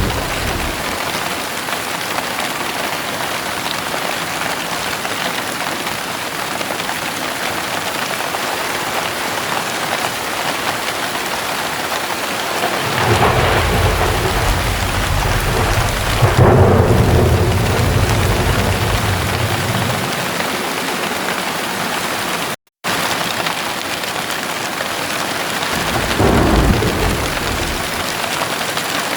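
Heavy rain falling steadily, with a long rumble of thunder that builds and swells about halfway through, then a shorter rumble near the end. The sound cuts out for an instant about three quarters of the way through.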